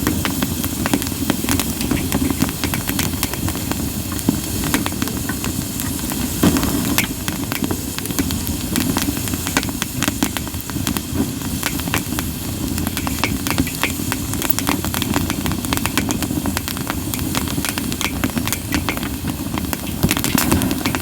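Split sawtooth oak (kunugi) firewood burning in a campfire: dense crackling and popping over a steady hiss, with one louder pop about six seconds in.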